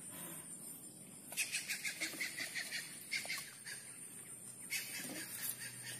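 Birds chirping faintly: quick runs of high chirps about a second and a half in and again near the end.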